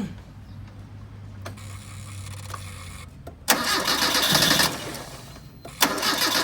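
Car engine started with the starter motor, on a car whose crank-no-start was traced to water in the gasoline and a clogged fuel injector. About three and a half seconds in, a loud burst of starter cranking and engine noise comes in suddenly and dies away over about two seconds. A second start comes near the end and keeps running.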